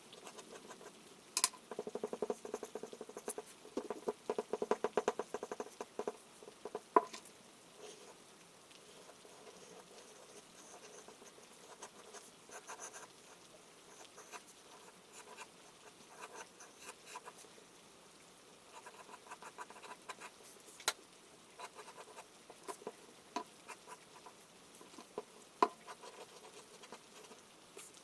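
Charcoal scratching on paper in quick, closely packed strokes for the first several seconds, then scattered single taps and short strokes. A soft patter of rain runs underneath.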